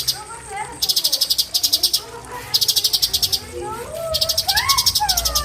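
Cucak cungkok singing: whistled notes that slide up and down, growing stronger and sweeping up then down in the second half. Over them come repeated bursts, about a second long, of rapid high chirping pulses.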